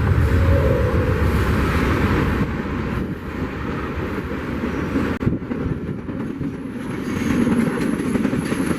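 Freight train rolling past, a loud steady noise of railcar wheels on the rails.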